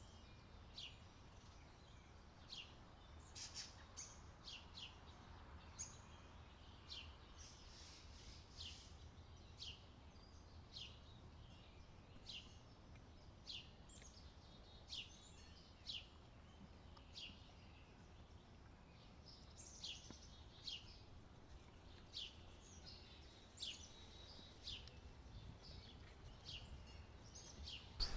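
Faint bird calls: short, high chirps, each dropping quickly in pitch, repeated about once a second over a low rumble of wind.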